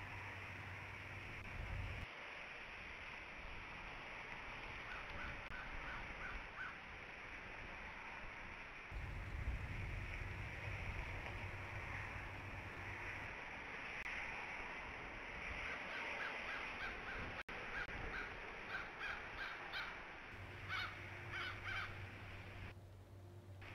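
Steady hiss of rain. A bird calls in short, quick series of notes about five seconds in and again over the last third, and a low hum comes and goes.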